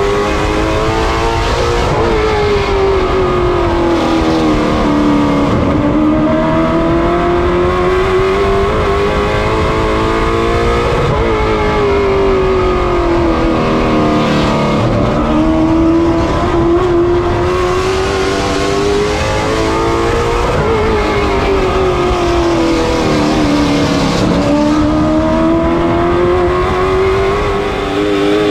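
Late model stock car's V8 engine running at racing speed. Its revs fall and climb in a smooth repeating cycle, about every nine seconds, with a brief lift at each peak.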